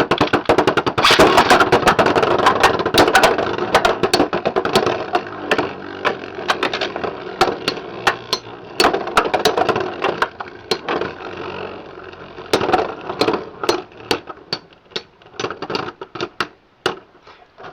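Two Beyblade X spinning tops battling in a plastic stadium: a dense grinding whir packed with rapid sharp plastic clacks as they collide. Over the last several seconds it dies away into scattered clicks as the tops slow down.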